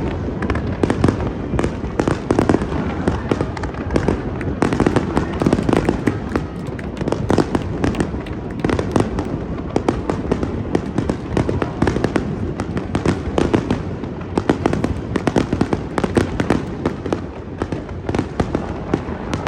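Fireworks finale barrage: a dense, unbroken run of bangs and crackling from many aerial shells bursting at once.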